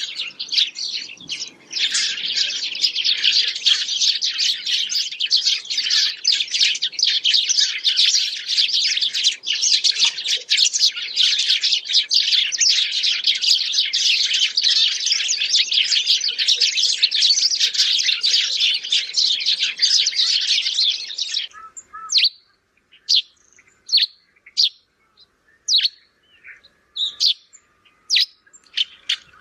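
A flock of house sparrows chirping together in a dense, continuous chorus that thins out about 21 seconds in to single, spaced-out chirps.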